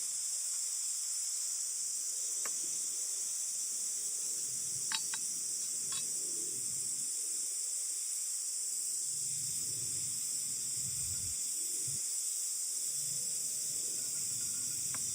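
Steady high-pitched chorus of insects such as crickets, with a few faint clicks and soft low rumbles coming and going underneath.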